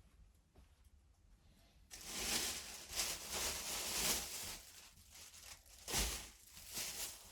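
Rustling, crinkling handling noise that starts abruptly about two seconds in and runs for about three seconds, then two shorter, sharper bursts near the end.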